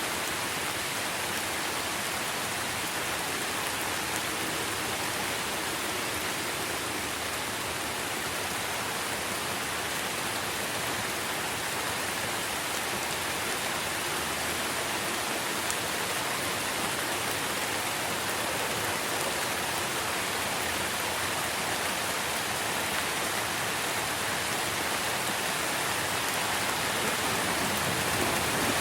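Steady rain falling on tree leaves, an even hiss that swells slightly near the end, with no thunder.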